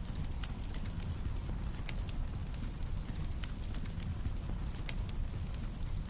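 Campfire crackling with irregular sharp pops over a low steady rumble, while a cricket chirps in a steady, evenly pulsing high note.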